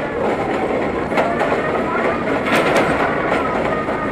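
R32 subway train running along the track, with steady running noise and wheels clicking over rail joints.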